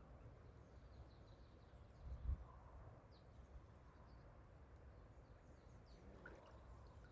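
Near silence outdoors: a low wind rumble on the microphone, with a brief gust about two seconds in, and a few faint, short bird chirps in the distance.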